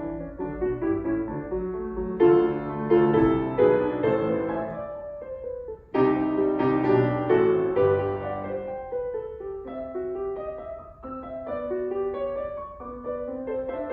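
Background piano music, a slow, gentle melody with chords, its phrases restarting about two and six seconds in.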